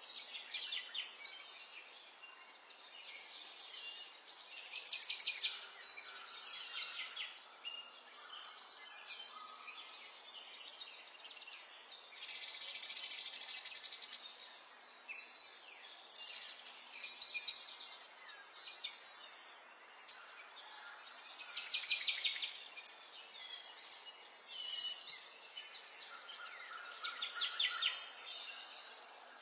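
Songbirds singing: a run of quick trilled and chirped phrases, one after another every second or two, over a faint steady hiss.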